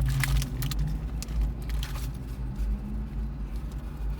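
Steady low hum and rumble of an idling car, heard from inside the cabin, with crinkling of a burger wrapper and handling clicks over it, busiest in the first couple of seconds.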